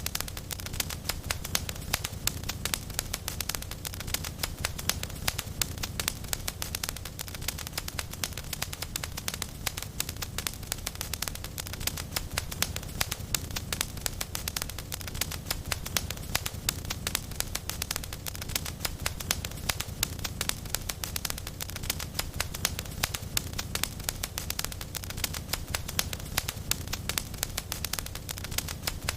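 Fireplace fire crackling steadily: a dense run of small, irregular pops and snaps over a low, even rumble of burning.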